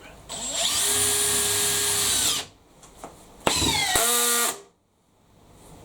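Makita XPH07 (DHP481) 18 V brushless hammer drill, in high gear, driving a long landscape screw into stacked hardwood and ply with no pilot hole. It makes two bursts. The first spins up to a steady whine for about two seconds and stops. The second comes about a second later; its pitch drops under load before it stops suddenly. The drill cut out a couple of times during this drive.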